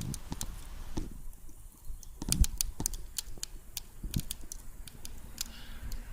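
Irregular sharp clicks and crackles, a dozen or so scattered through, over a low rumble.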